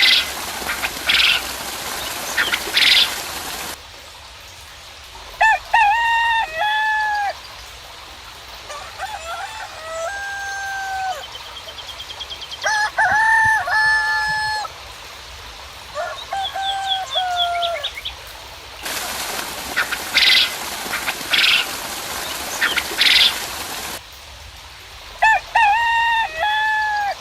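Roosters crowing again and again, each a long cock-a-doodle-doo of about two seconds, some overlapping. Twice, at the start and about two-thirds of the way through, a few seconds of loud hissing noise with sharp swishes cut in and stop abruptly.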